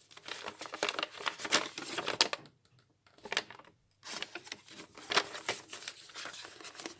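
Paper and card rustling and sliding as pieces are pulled from and pushed back into a journal pocket, in irregular crinkly strokes. There is a pause about two and a half seconds in, then the rustling resumes.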